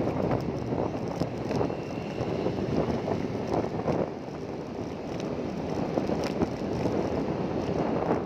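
A vehicle running, with wind buffeting the microphone in an irregular rumble.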